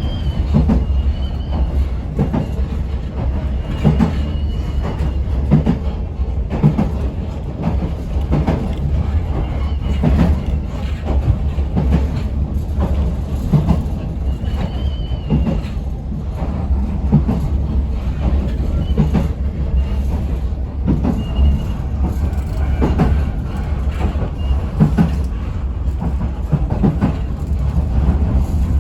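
Local electric train running on the line, heard from inside the front car: a steady rumble of wheels and motors with a clack of wheels over rail joints about every one to two seconds, and a few brief faint wheel squeals.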